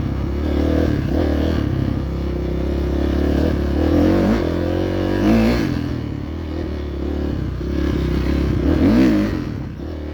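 Dirt bike engine running under way, revving up and easing off several times, with sharp rises about four, five and nine seconds in.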